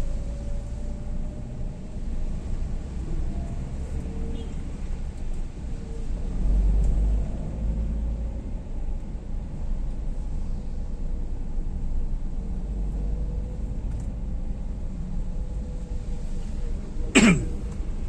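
Steady low rumble of a vehicle travelling along a road, rising a little about six seconds in, with one brief, sharp sound falling quickly in pitch near the end.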